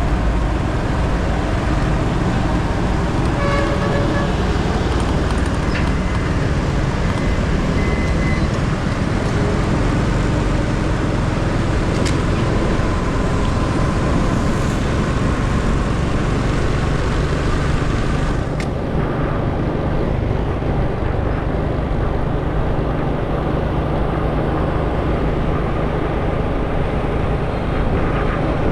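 Motorcycle riding through road traffic, heard from a GoPro on the bike: steady engine and wind rush. A brief horn toot comes about four seconds in.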